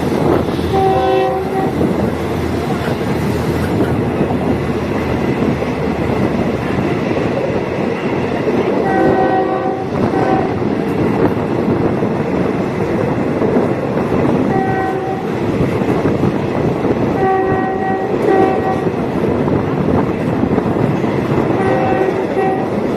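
Diesel multiple-unit train running, with a steady rumble of wheels and engine. Its horn sounds in short blasts several times: about one second in, around nine to ten seconds, about fifteen seconds, around seventeen to eighteen seconds, and again near the end.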